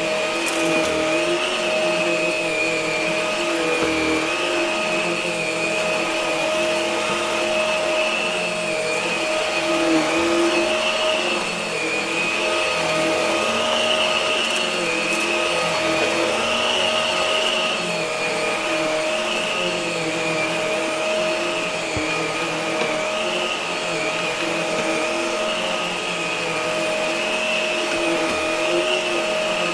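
Hart vacuum cleaner running steadily, its motor whine wavering slightly up and down in pitch about every two seconds as it is pushed back and forth.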